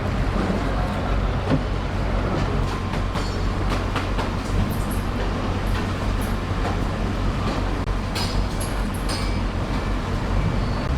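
Steady low machine hum under a constant noisy background, with a few short high-pitched squeaks and clinks scattered through it.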